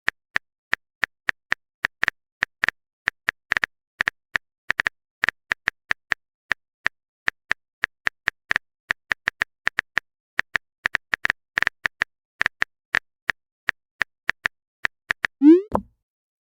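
Phone keyboard tap sounds: short, sharp clicks at an uneven typing pace of about three a second, then one loud, quick rising 'bloop' sound effect near the end.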